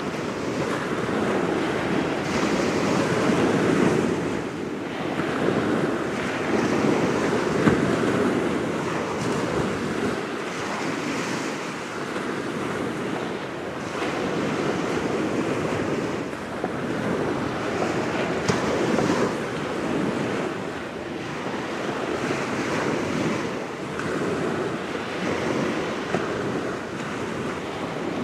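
Small waves washing onto the shore, swelling and easing every few seconds, with wind buffeting the microphone.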